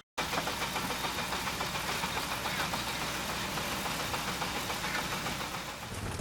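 Wooden rock crusher driven by a Harrison-Jumbo steam engine, running with a dense, continuous clatter of rapid irregular knocks. A steady low hum comes in near the end.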